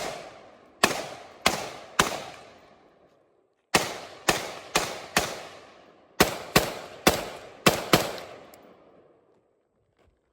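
AR-15 in 5.56 firing semi-automatic from a drum magazine: about a dozen shots in three quick strings, roughly two a second, each echoing away.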